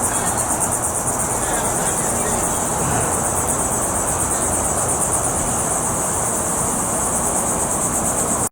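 Crickets chirping in a steady, fast, high-pitched trill, over a constant low rumble of background noise.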